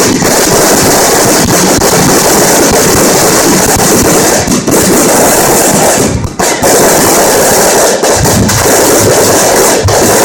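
A giant bonfire burning, with a loud, steady roar of dense crackling and popping.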